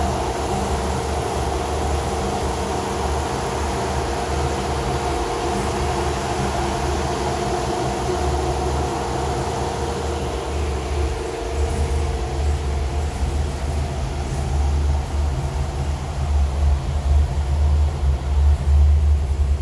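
GM Performance LS3 6.2-litre V8 in a 1956 Chevy Nomad idling on its first start-up, breathing through Flowmaster 50 series mufflers with a mellow exhaust tone. The low exhaust rumble grows louder and more uneven over the last few seconds.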